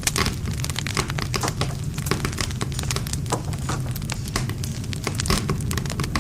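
Wood fire burning: a low steady rumble of flame with dense, irregular sharp crackles and pops of burning wood.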